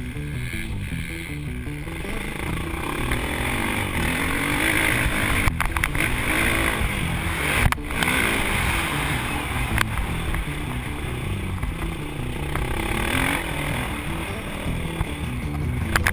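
Motocross dirt bike engines running, with a few sharp clicks about five and a half and seven and a half seconds in.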